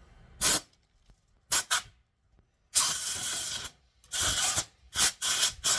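Compressed-air blow gun fired in a series of short hissing blasts, the longest about a second.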